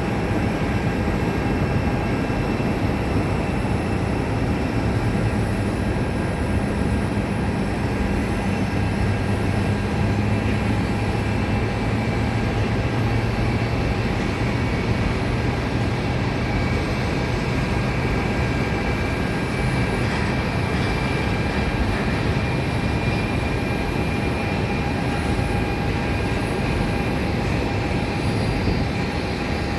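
Jet engines of a McDonnell Douglas MD-11F trijet cargo plane: a steady rushing noise with a few thin, steady high whining tones and a low hum through the middle.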